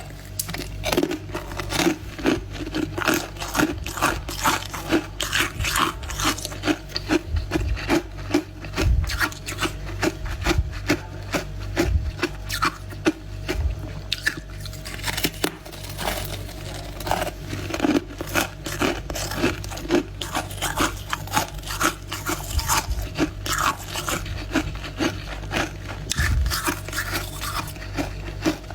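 Freezer frost being crunched and chewed close to the microphone: a continuous run of crisp crunches, one or two a second, over a steady low hum.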